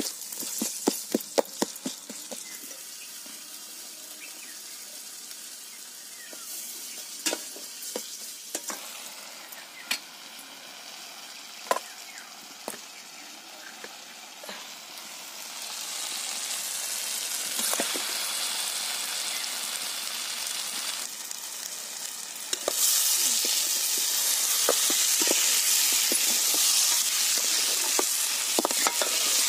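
Mutton curry masala sizzling in a steel kadai as a metal spatula stirs and scrapes it, with sharp clinks of the spatula against the pan. The frying hiss grows louder about halfway through and again near the end.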